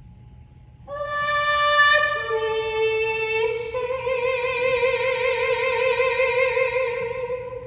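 A woman singing unaccompanied in a classical, musical-theatre style: three held notes, the first high, then a lower one, then a long final note with vibrato that fades near the end.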